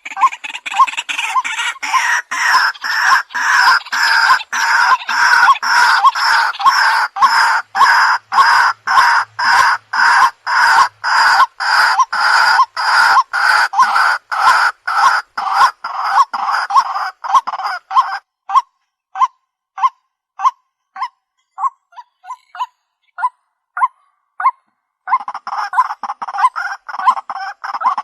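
Recorded white-breasted waterhen call mix: a rhythmic call note repeated about twice a second over a dense chorus of overlapping calls. About two-thirds of the way in, the chorus drops out and the repeated note goes on alone, more slowly. The chorus comes back near the end.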